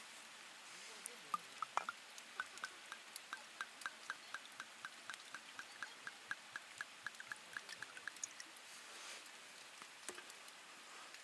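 A quick, even series of small liquid drips, about four a second, all at the same pitch. They start a little over a second in and stop about eight seconds in.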